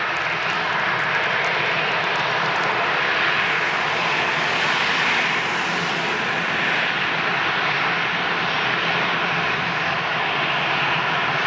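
Jet airliner engines heard from the ground, a steady loud rush of noise whose hiss grows a little brighter about four to six seconds in.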